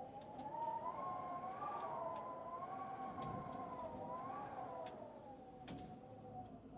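Wood fire crackling, with scattered sharp pops over a faint background hiss. Louder over it is a sustained, slowly wavering tone of several pitches together, rising a little about a second in and sinking near the end.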